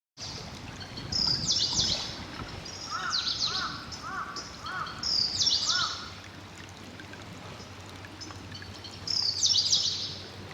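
Songbirds singing. A high phrase of quick sweeping notes comes three times, about every four seconds, with a lower run of short arched notes in between, over soft background noise.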